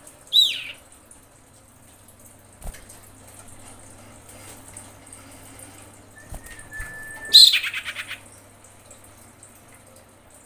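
Female common iora (cipoh) calling twice. The first call is a quick note sweeping downward. The second, near the end, is a thin steady whistle that breaks into a fast run of falling notes. A few faint clicks and a low steady hum sit underneath.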